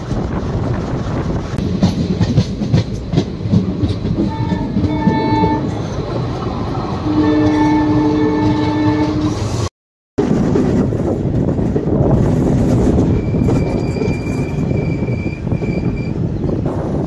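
Passenger train running, heard from an open coach door: a steady rumble of wheels on the track with clattering at first. The horn sounds twice in the middle, a shorter blast and then a longer, stronger one. The sound cuts out for a split second after the horns, and a thin high steady tone runs for a few seconds near the end.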